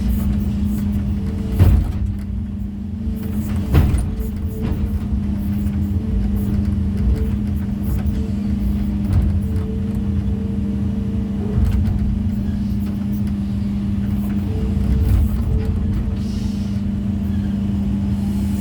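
Excavator's diesel engine running steadily, with a few clunks of stone on stone, the loudest about two seconds in and just under four seconds in.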